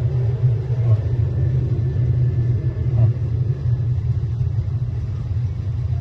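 Refrigerator running after its capillary tube was cleared: a steady low hum, with the compressor and evaporator fan working and the unit starting to cool again.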